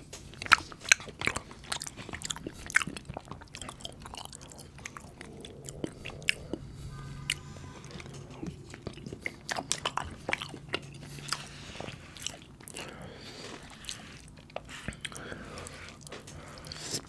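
Close-miked chewing and wet mouth sounds of a person eating soft, saucy butter chicken from a spoon, with many sharp smacks and clicks. A low steady hum runs under the chewing for several seconds in the middle.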